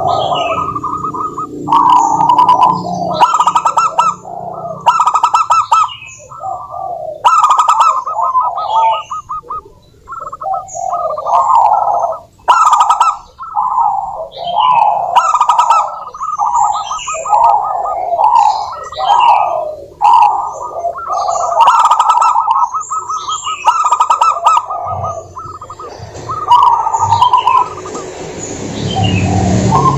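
Zebra doves singing: phrase after phrase of rapid staccato cooing notes, with short gaps between phrases. Fainter, higher chirps sound over and between them.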